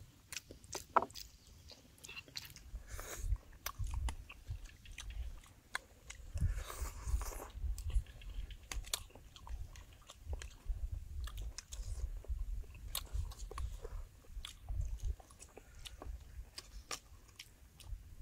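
Close-up chewing and biting of balut, boiled fertilized duck eggs, mixed with many short, sharp clicks of spoons.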